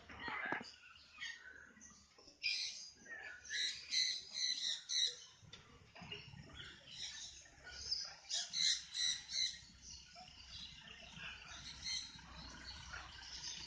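Parrots calling: two bouts of rapid, high-pitched chattering calls, the first about two to five seconds in and the second around seven to nine seconds in, with fainter calls between and after them.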